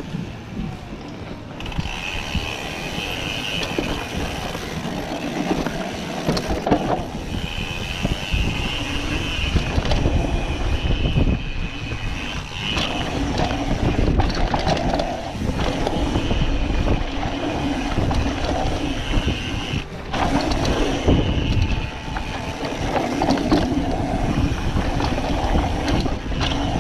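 Mountain bike running down a dirt trail: a steady rumble and rattle from the tyres and bike, with a high buzz that comes and goes.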